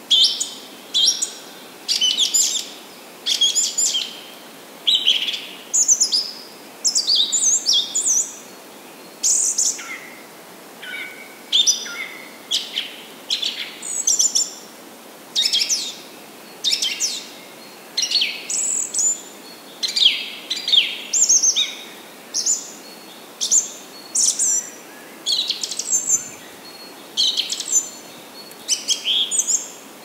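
Birds chirping: short, high calls in close succession, roughly one burst of chirps every second, many of them sliding down in pitch, over a faint steady hiss.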